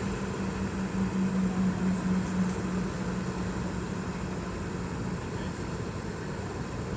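Boeing 717 jet engines and air systems running with a steady rush of noise, and a low steady hum that fades out about five seconds in.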